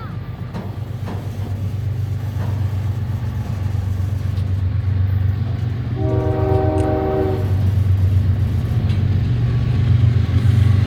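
CSX diesel freight locomotive approaching, its low engine rumble growing steadily louder, with one horn blast of about a second and a half near the middle.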